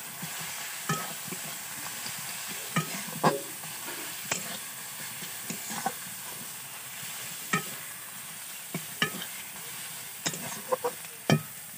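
Browned onions with freshly added ginger-garlic paste frying in oil, a steady sizzle, while a metal spatula stirs them in a metal kadai with irregular scrapes and clinks against the pan, a few of them ringing briefly.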